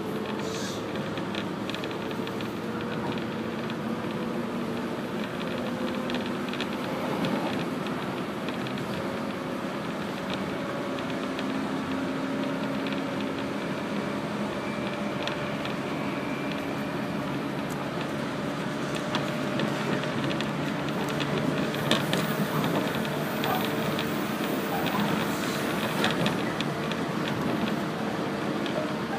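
A 115 series electric multiple-unit train running, heard from inside the carriage: a steady rumble of wheels on the rails with a faint hum whose pitch drifts slightly. In the last third the wheels clatter in a run of sharp clicks and knocks over the track.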